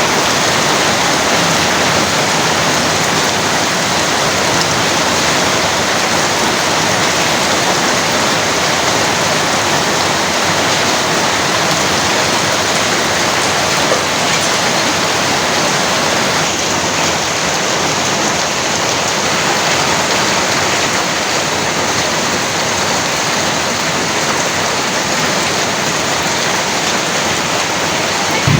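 Heavy rain falling steadily: a dense, even hiss of downpour that holds the same level throughout.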